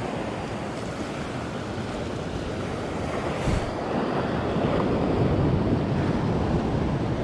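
Sea surf washing against the shore, with wind on the microphone; the wash swells louder around the middle, and there is a brief knock about halfway through.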